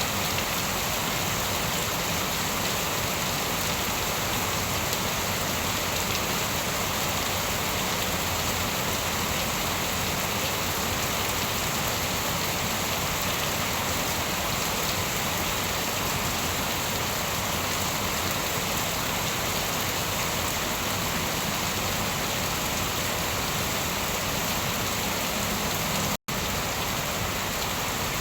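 Steady, dense rainfall, an even hiss of drops on surfaces with no thunder, broken by a split-second gap of silence near the end.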